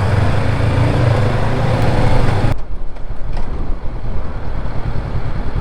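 Honda NX500 motorcycle running on the road: a steady low engine hum under wind and road noise. About two and a half seconds in, the sound cuts abruptly to a quieter, low, uneven engine rumble.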